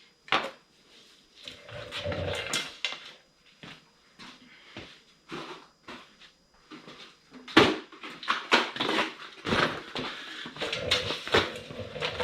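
Metal tools and small motorcycle engine parts clinking and clattering, with a run of sharp knocks and clicks that come thicker in the second half.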